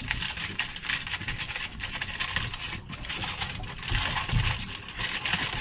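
Wrapping being crinkled and folded by hand to seal a cooking packet shut: a run of irregular crackles and rustles, busiest near the end.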